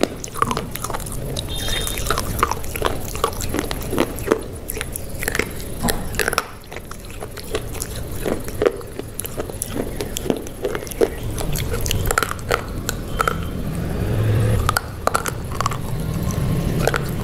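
A person chewing crunchy food close to the microphone: many sharp, uneven crunches and wet mouth clicks, with a fuller low sound building toward the end.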